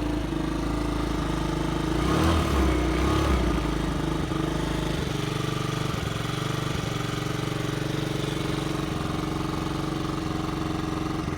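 Yamaha Vino scooter engine idling steadily, with a brief louder, rougher rise about two seconds in before settling back to an even idle.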